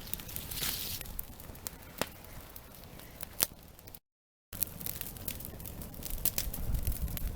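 Wood campfire crackling, with scattered sharp pops, one loud pop about three and a half seconds in; after a short break the pops come thicker.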